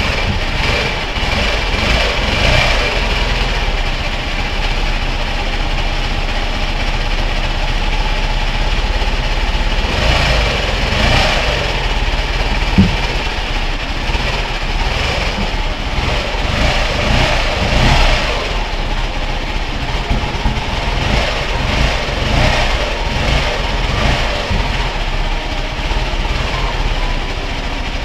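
Ural motorcycle's flat-twin engine running steadily with its freshly rebuilt gearbox, which is very noisy: the owner takes the noise as a sign he reassembled the gearbox wrong.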